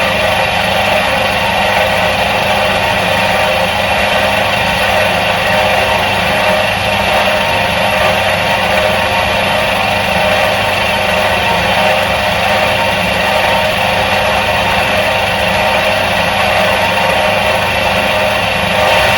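The electric motor of a 1977 Soviet washing machine running steadily: a constant hum with a rushing noise over it.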